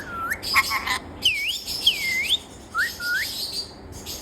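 A parrot whistling a string of short, clear notes, some swooping down and back up and others rising, with a few rough chirps in between.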